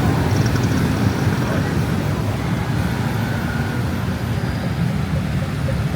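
Steady road traffic noise from passing motor vehicles, a continuous low rumble of engines and tyres.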